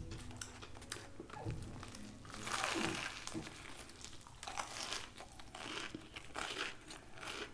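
Paper food wrapping crinkling and rustling as it is handled, in irregular crackles that grow densest a little past the middle.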